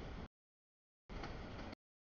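Freight cars of a mixed freight train rolling past, a steady rumbling noise that keeps cutting out to dead silence: one burst stops just after the start and another lasts about two-thirds of a second in the middle, the audio dropping in and out.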